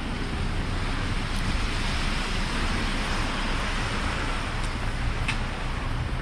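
Street traffic noise on a snow-covered city street: a steady rushing hiss of tyres, swelling in the middle as a vehicle passes.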